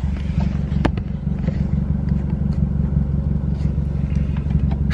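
Steady low drone of a car in motion heard from inside the cabin: engine and road rumble, with a single sharp click about a second in.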